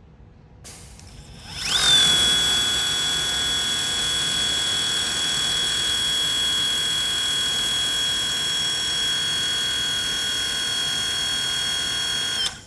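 Battery-powered pressure washer driven by two agricultural-drone motors, spinning up with a quick rising whine about a second and a half in. It runs at a steady, loud, high-pitched whine, then cuts off suddenly near the end.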